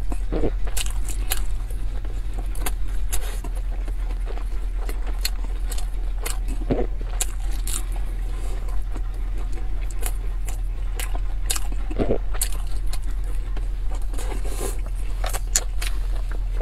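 Close-miked chewing of pan-fried dumplings: wet mouth smacks and clicks scattered through, over a steady low hum.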